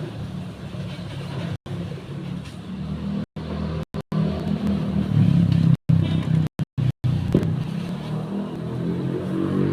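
Low, steady engine hum, like a motor vehicle running, with the sound cutting out completely for split seconds several times.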